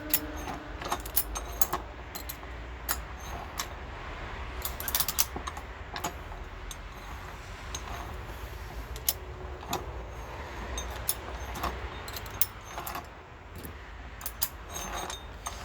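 Lawn tractor transmission being shifted through its gears by hand: irregular metallic clicks and clinks as the gear selector moves.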